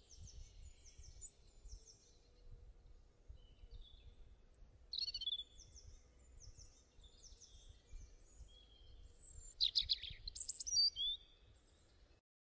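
Small birds chirping and singing: short, quickly repeated high notes that slide downward, with a louder cluster of calls about ten seconds in, over a faint low rumble.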